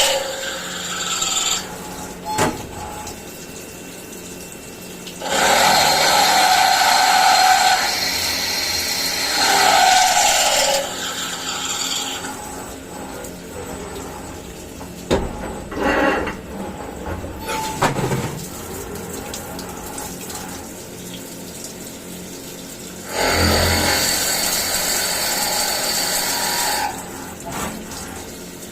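CNC milling machine cutting metal in several passes: loud spells of cutting noise with a steady whine, each lasting a few seconds, separated by quieter stretches of the machine running, with a few short knocks.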